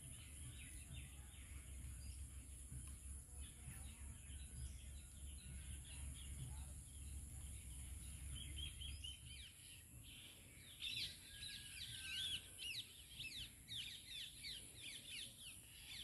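Faint outdoor ambience with birds chirping: a low rumble fades out about halfway through, then a rapid run of quick, high, falling chirps is heard in the second half.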